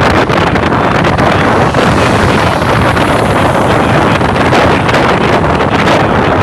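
Loud, steady wind rushing over the microphone while travelling at speed, mixed with the vehicle's engine and road noise.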